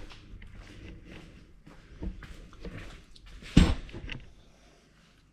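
Small metal hardware being handled: a series of light clicks and clinks, with one louder knock about three and a half seconds in, then it goes quiet.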